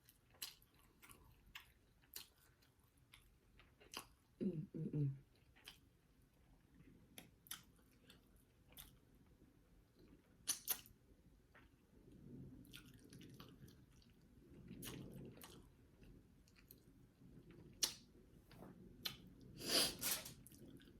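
Close-miked chewing of rice and turkey sausage: soft, scattered wet clicks and smacks of a mouth eating. There is a brief low hum about four and a half seconds in, and a short breathy burst about a second before the end.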